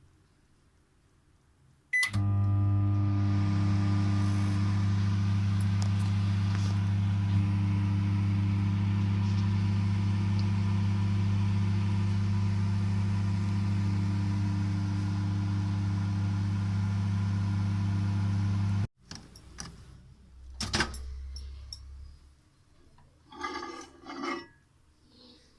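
Microwave oven starting with a short beep, then running with a steady hum for about seventeen seconds before stopping abruptly. A few clicks and knocks follow near the end.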